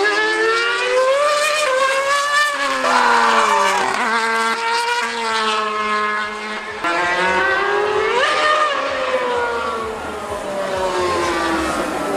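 High-revving racing engine, its note climbing and falling several times as it accelerates and changes gear, with a sharp rise about eight seconds in and then a long falling note.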